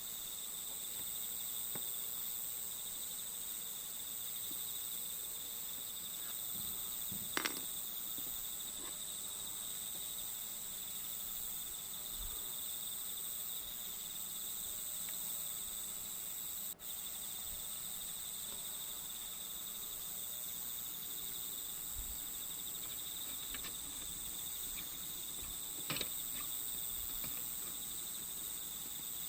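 A steady chorus of crickets, a continuous high chirring. It is broken by two brief light clicks, one about seven seconds in and one late on.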